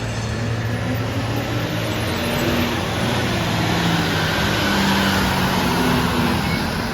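Rear-loader garbage truck's diesel engine running, its pitch rising through the middle and then easing back.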